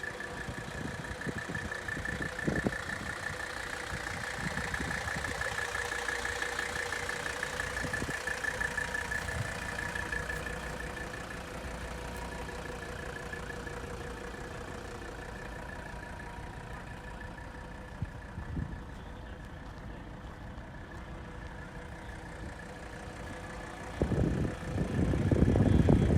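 Mercedes-Benz 300TD's five-cylinder diesel engine idling steadily. It gets somewhat quieter through the middle, and a louder low rumble comes in near the end.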